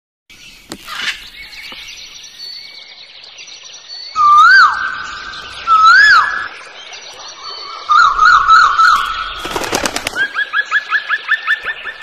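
Wild birds calling: two loud whistled notes that each swoop up and fall away, a quick warbling trill, then a fast run of short rising chirps near the end, over fainter high chirping.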